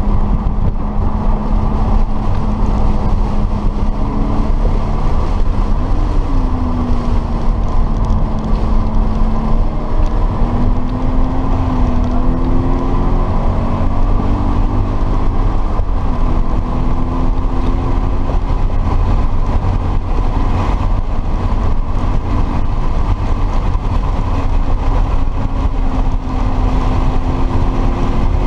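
Subaru BRZ's 2.0-litre flat-four engine running at track speed, heard inside the cabin under heavy low road and tyre rumble. Its pitch rises and falls with throttle and gear changes.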